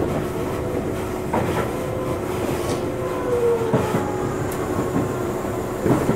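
Tobu Railway electric train running on the Kiryu Line: steady running noise with a constant hum, the wheels knocking over rail joints three times, and a brief gliding tone near the middle.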